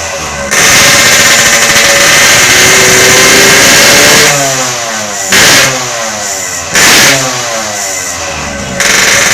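Yamaha RX-King 135 single-cylinder two-stroke revving through a custom side-exit 'toet' exhaust. It is held at high revs for about four seconds and falls back, then gives two short throttle blips and revs up again near the end.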